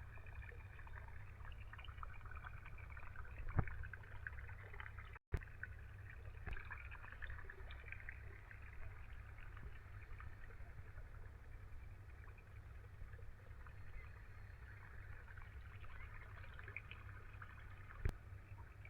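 Diesel tractor engine running steadily at a constant speed, driving a tubewell pump, with water splashing from the outlet. The sound cuts out for a moment about five seconds in, and there are a couple of sharp clicks.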